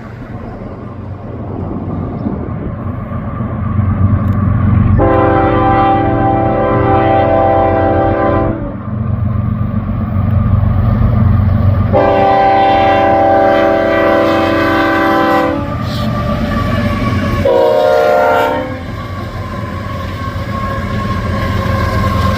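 Union Pacific freight locomotive horn sounding three blasts, two long and then a shorter, lower one, over the steady low rumble of approaching diesel locomotives that grows louder.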